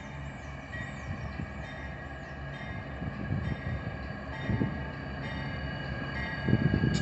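A freight train moving through a rail yard: steady low rumble of the locomotive and rolling wagons with a ringing metallic whine, growing louder as it nears.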